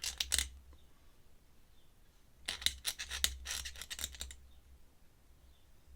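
Ink pen scratching across paper in quick drawing strokes: a short flurry at the start, then a longer run of strokes from about two and a half to four seconds in.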